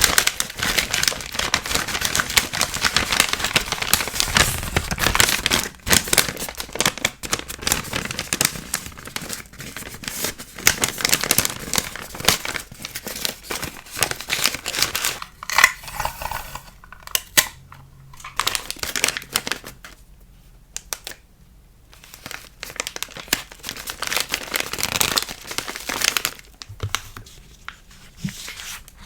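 Packaging being handled by hand while packing a sticker order: close, continuous crinkling and rustling with small sharp clicks and some tearing. It thins out for a few seconds past the middle, then picks up again.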